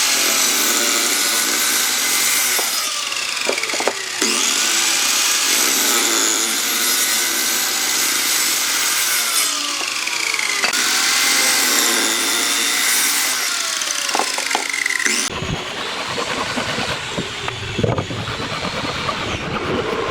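Power tool cutting into wood, a dense noise whose pitch dips and rises as the load changes. About 15 seconds in it gives way to a different, lower mechanical noise.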